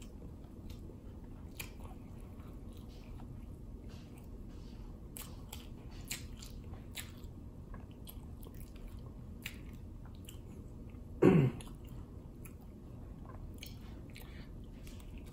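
Chewing of a crunchy hard-shell taco, with small crisp crunches scattered throughout. About eleven seconds in, the eater makes a short, loud grunt.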